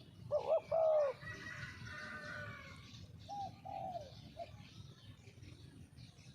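Spotted dove cooing: a burst of short arching coos about half a second in and another phrase about three seconds later, with smaller birds chirping behind.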